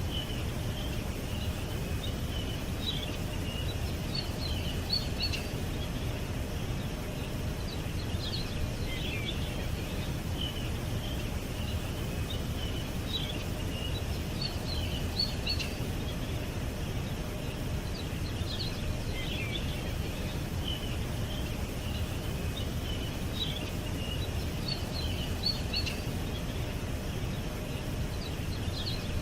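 Songbirds chirping in short high bursts every few seconds, over a steady low rumble of background noise.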